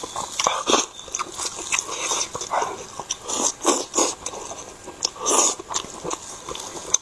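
Close-miked chewing of fried chicken: a run of short, irregular wet smacks and clicks from the mouth, with the squelch of meat being pulled apart by plastic-gloved hands.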